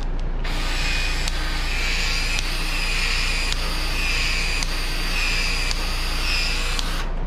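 Battery-powered PEX-A expansion tool running, its head cycling open and shut to stretch the end of a PEX-A pipe for an expansion fitting. The motor whine swells and dips with each stroke about every three-quarters of a second. It starts about half a second in and stops just before the end.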